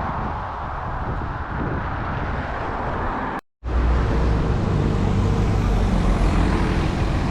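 Wind and road rumble on an action camera while cycling along a road, with traffic noise. An edit cuts the sound out briefly about halfway through, and after the cut the low rumble is louder, with a steady hum like a passing vehicle.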